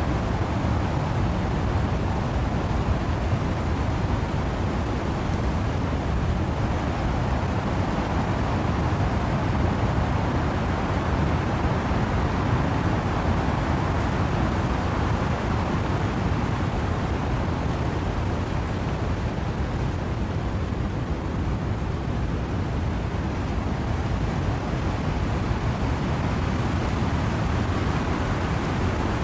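Steady wind and rain in trees, a low, even rushing noise with gentle slow swells in level.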